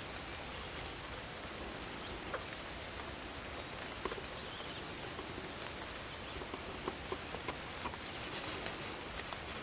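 Night forest ambience: a steady hiss of rain and wind in the trees with scattered irregular drips and ticks, over a high, steady insect trill.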